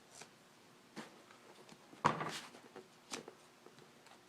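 Scissors cutting the excess seat-cover material: a few separate snips and handling rustles, the loudest about two seconds in.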